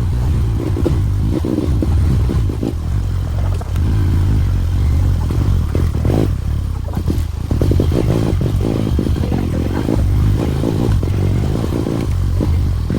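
Motorcycle engine running steadily under way, with frequent knocks and rattles over it.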